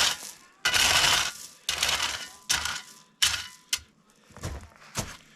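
A run of sudden clattering crashes, about one a second, each dying away over most of a second, then a few lighter sharp knocks near the end.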